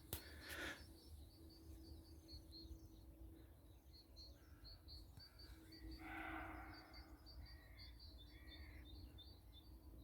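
Faint woodland ambience with a run of rapid high bird chirps, and one harsh, hoarse roe deer bark about six seconds in.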